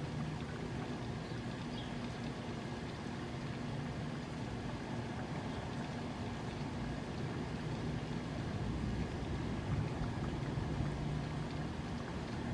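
Steady rain with a low engine drone underneath, from a passing vehicle or aircraft, slowly swelling toward the end.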